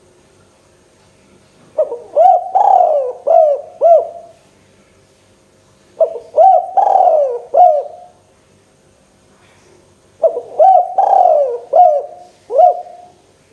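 Spotted dove (tekukur) cooing: three song phrases a few seconds apart, each a quick run of about five low coos.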